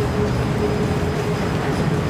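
Steady hum and rumble of a Singapore MRT train standing at the platform with its doors open, with a faint tone that comes and goes.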